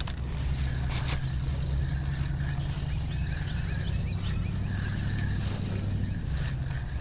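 A boat motor running steadily, a low even hum, with a couple of light clicks about a second in.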